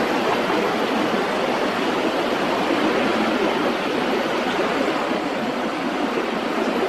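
Airbus A320 jet engines heard as a steady, even rushing noise with no rise or fall.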